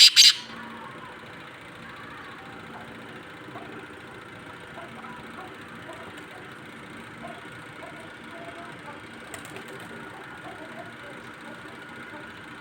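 Steady background hum, like a distant engine running, with a few faint short chirps scattered through it.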